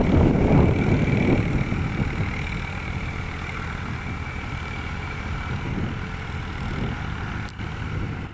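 Eicher 380 tractor's diesel engine running, louder for the first couple of seconds and then settling to a steadier, somewhat lower level.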